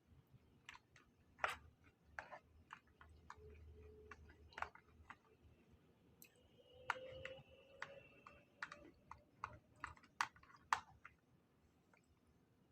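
A person eating quietly: faint chewing with scattered, irregular small clicks and taps.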